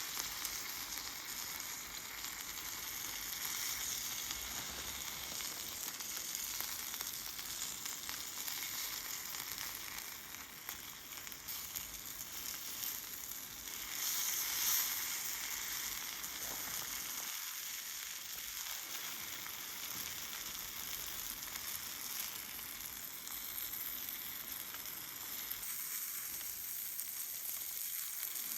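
Food sizzling steadily as it cooks, a continuous crackling hiss.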